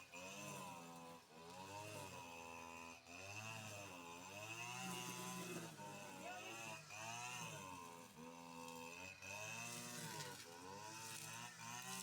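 An engine revving up and down over and over, its pitch rising and falling every second or two, with a steady high whine underneath.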